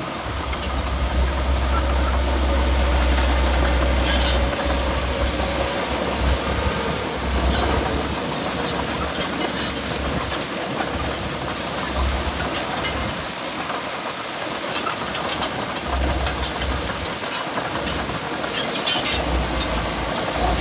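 Heavy earthmoving machinery running, with irregular metallic clanking and rattling over a deep rumble that swells and drops several times.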